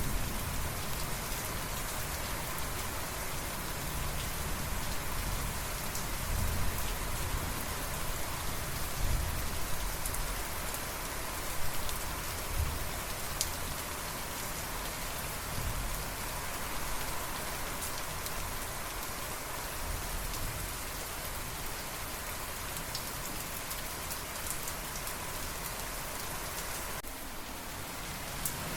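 Steady rain falling in an even hiss, with the low rumble of thunder dying away at the start. Fainter low rumbles swell now and then, and the rain briefly thins just before the end.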